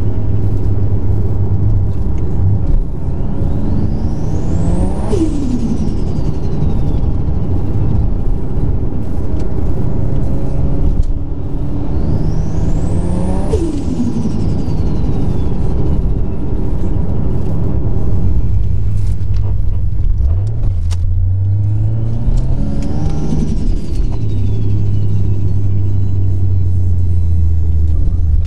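Single-turbo Toyota 2JZ-GTE straight-six pulling hard three times, heard inside the cabin. Each pull brings a whine that climbs to a very high pitch as the turbo spools and then falls away when the throttle comes off, over a steady engine drone.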